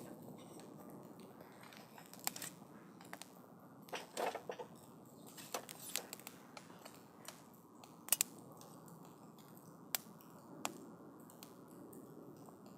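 Wood campfire burning, crackling with irregular sharp pops over a soft steady hiss of the flames; the loudest pops come about four and eight seconds in.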